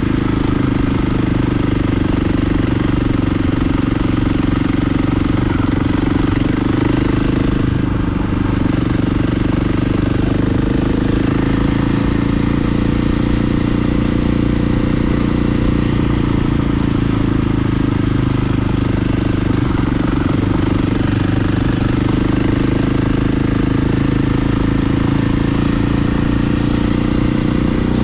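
Dirt bike engine running steadily while being ridden at a cruise, its pitch rising and falling gently with small throttle changes.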